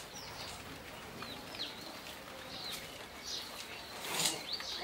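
Small birds chirping: short, quick high calls repeated throughout, with a brief louder noise about four seconds in.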